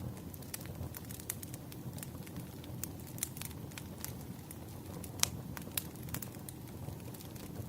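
Wood fire burning, with a steady low rumble and frequent sharp crackles and pops, the loudest pop a little past five seconds in.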